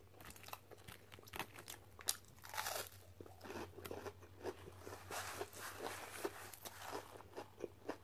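Close-miked chewing of crunchy fried fast food: a dense run of crisp crunches and mouth clicks lasting several seconds, over a faint steady low hum.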